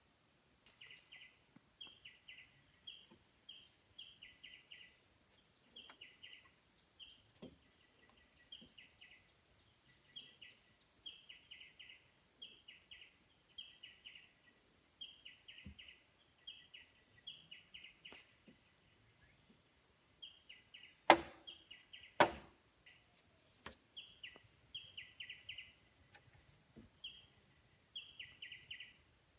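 A small bird chirping, short groups of quick high notes repeated about once a second. Two sharp knocks come about two-thirds of the way through, a second apart.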